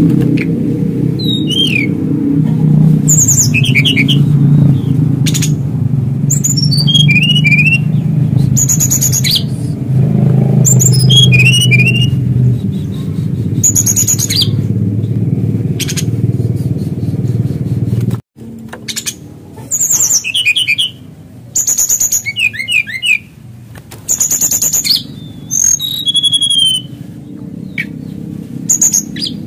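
Male brown-chested jungle flycatcher singing its territorial song at a rival: short phrases every second or two, each a high note followed by a quick run of falling notes. A low steady hum sits underneath and stops abruptly about two-thirds of the way through.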